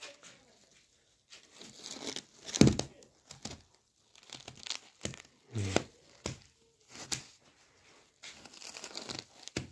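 Irregular crinkling and rustling of handled sheet material or wrapping, broken by scattered sharp clicks and knocks.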